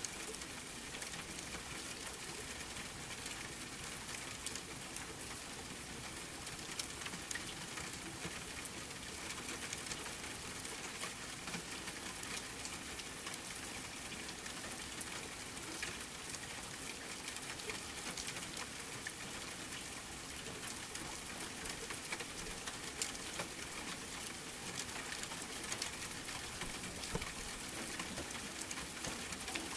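Steady rain, an even hiss, with scattered small sharp crackles and pops, like a wood fire crackling.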